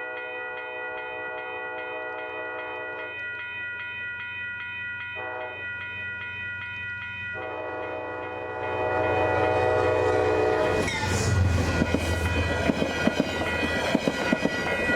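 Metro-North P32AC-DM locomotive's multi-note air horn sounding one long blast for about eleven seconds, its lower notes dropping out twice partway through. It grows louder as the train nears, then the train passes close with a heavy rumble and clattering wheels over rail joints.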